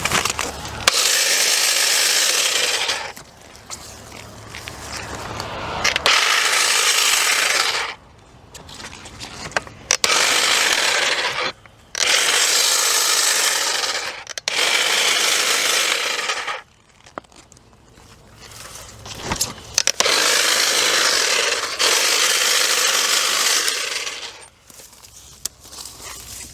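Battery-powered electric cutting tool run in repeated bursts of about two seconds, roughly seven times, as it cuts through vines and brush.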